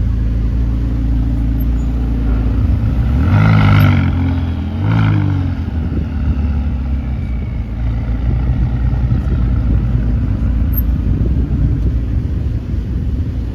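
A car engine idling steadily, revved twice in quick succession about three and a half and five seconds in, then settling back to idle.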